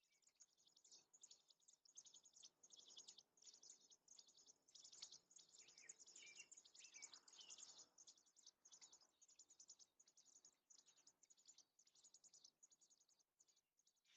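Birds chirping faintly: a dense run of rapid, high-pitched chirps, busiest in the middle, with a few short gliding whistles mixed in around the middle.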